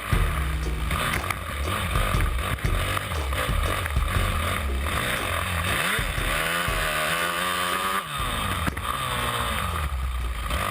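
Motocross dirt bike engine being ridden hard, its pitch rising and falling with the throttle and gear changes, with one long rev building and held for a couple of seconds about halfway through before dropping off.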